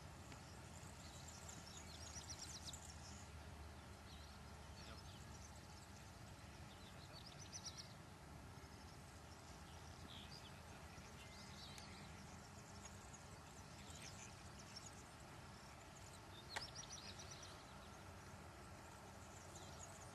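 Near silence: faint open-air background with distant bird calls now and then, short high trills, and one sharp click about two-thirds of the way through.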